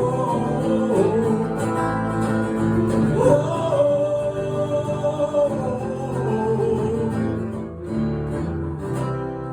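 Live acoustic music: strummed acoustic guitar chords with a singer holding one long note in the middle, the playing getting quieter near the end as the song winds down.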